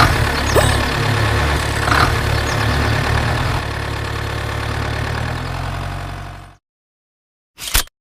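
Engine sound, a steady low running rumble, that cuts off abruptly about six and a half seconds in; a brief burst of the same sound comes just before the end.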